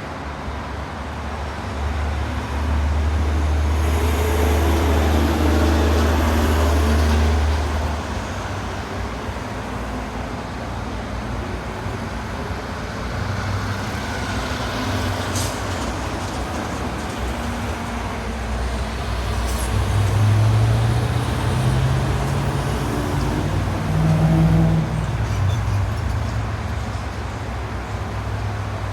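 City traffic noise: a steady hum of road vehicles, with one heavy vehicle passing as a loud low rumble from about three to eight seconds in, and another swelling past about twenty seconds in.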